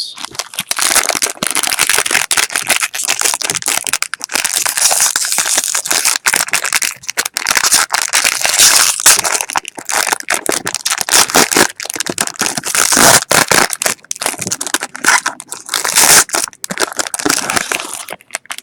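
Plastic wrapping crinkling and tearing as a sealed brick of trading cards is unwrapped by hand: a loud, dense crackle of many small snaps that stops near the end.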